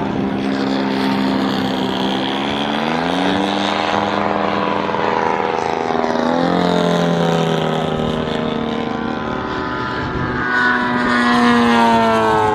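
Moki radial engine of a large-scale RC Corsair running under varying throttle. Its pitch rises about three seconds in, drops steeply around the middle, then climbs and falls again near the end.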